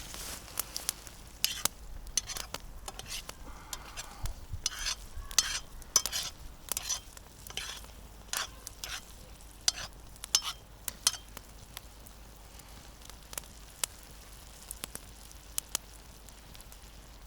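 Mushrooms frying in a pan over a campfire and being stirred: irregular short scrapes and clicks of the utensil against the pan over a faint sizzle, busier in the first part and thinning out later.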